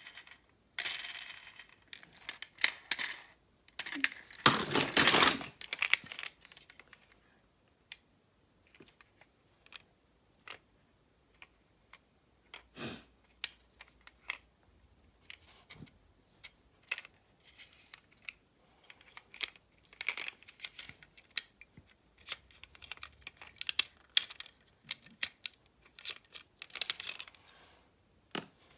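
Irregular sharp clicks and clatters of small hard objects being handled, with a denser burst of rattling about five seconds in.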